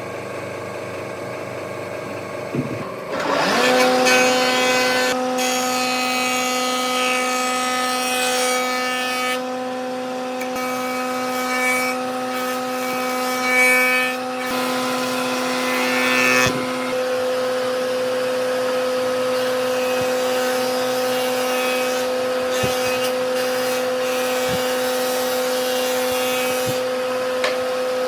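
An electric power tool's motor spins up about three seconds in and runs at a steady whine, with rough surges of noise as it works against wood. Before it starts there is a steady hiss.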